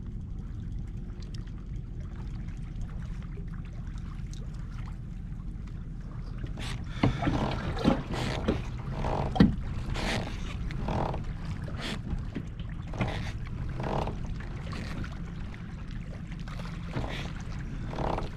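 Water splashing around a kayak at a steady rhythm of about once a second, starting about seven seconds in, over a constant low rumble of wind and water.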